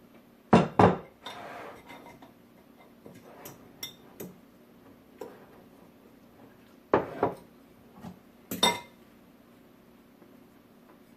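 Kitchen dishes and utensils clattering: a few sharp knocks and clinks, coming in pairs about half a second in, about seven seconds in and near the end, with lighter clicks between.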